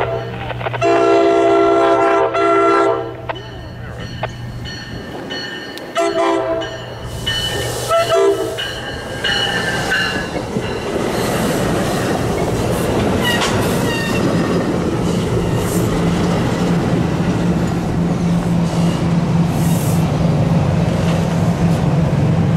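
NJ Transit commuter train sounding its horn, a chord of about two seconds about a second in and shorter blasts around six and eight seconds, as it approaches. It then rolls past close by, the steady rumble and clatter of its bi-level Multilevel coaches building and holding.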